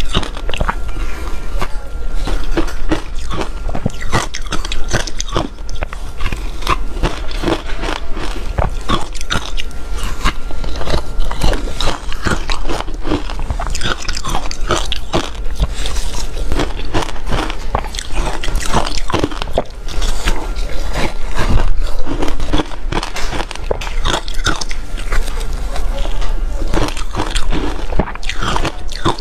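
Soft reshaved refrigerator ice being bitten in big bites and chewed, a dense, continuous run of crisp crunches, over a steady low hum.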